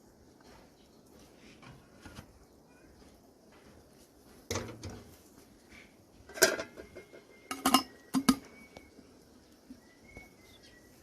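Dishes and utensils clinking and knocking together a few times, some strikes leaving a brief ringing tone, with quiet between them.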